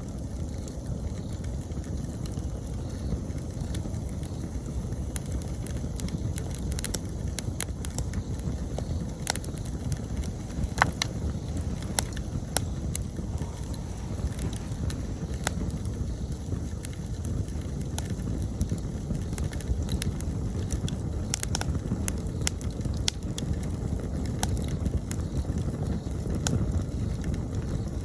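Wood campfire burning, with scattered sharp crackles and pops over a steady low rumble. The pops come more often after the first few seconds, and the loudest is about halfway through.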